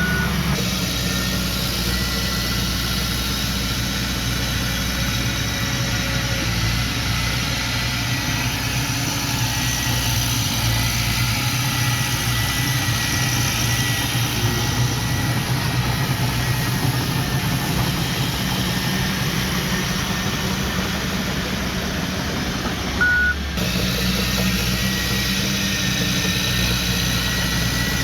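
Heavy diesel engine of earthmoving machinery running steadily, with a faint steady whine above it. A single short reversing beep sounds about five seconds before the end.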